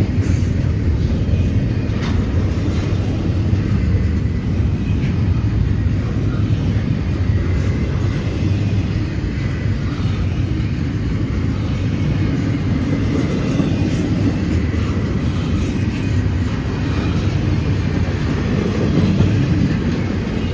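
Long freight train rolling past: a steady, loud rumble of wheels on rail that holds the same level throughout.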